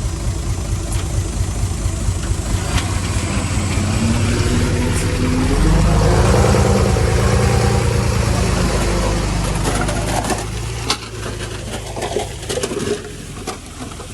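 Heavy equipment's diesel engine running, rising in pitch as it works harder from about four seconds in and loudest in the middle. It eases off after about ten seconds, when scattered clanks and knocks come in.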